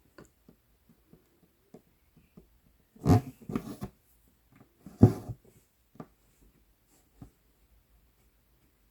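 Cross-stitch needle clicking and scratching as it pierces 11-count Aida fabric, with faint ticks of thread being drawn through. Two louder rustling knocks come about three and five seconds in.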